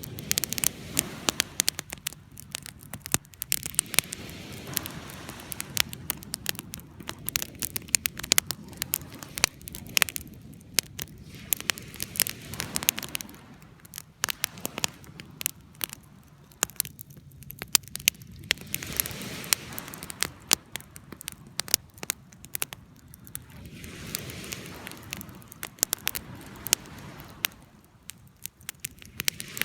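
Wood campfire burning, with dense irregular crackling and sharp pops over a low rushing of flame that swells and fades every few seconds.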